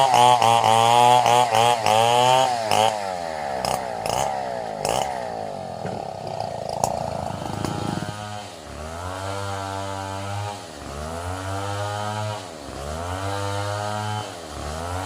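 Two-stroke chainsaw engine revving: quick rev blips at first, then dropping back and rising and falling in speed about every two seconds.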